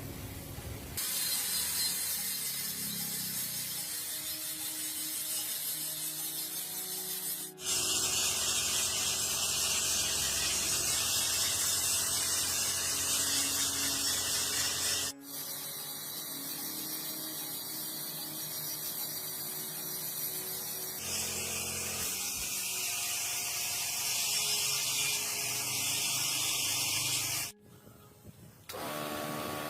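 Steady mechanical whirring and hissing from workshop tools, in several short stretches joined by abrupt cuts, with a brief quieter gap near the end.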